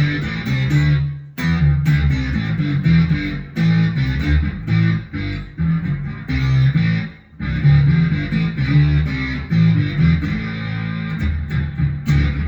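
Electric guitar played through a Boss SY-200 guitar synth pedal on its 'Dark Bass' preset, with a Joyo American amp-simulator pedal: a deep synth-bass line of short notes that breaks off briefly twice.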